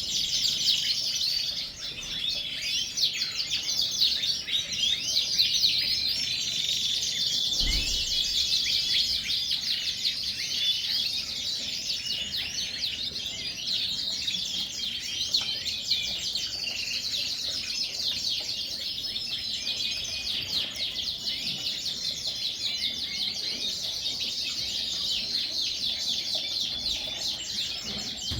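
Many Yorkshire canaries singing and chirping at once, a dense unbroken chorus of quick trills and chirps. A brief low thump sounds about eight seconds in.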